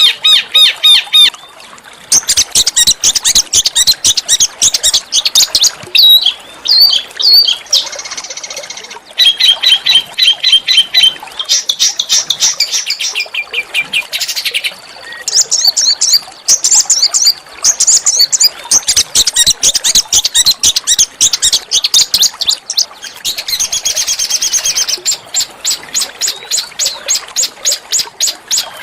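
Small songbird singing rapid, harsh trains of high notes, phrase after phrase with only short pauses between them.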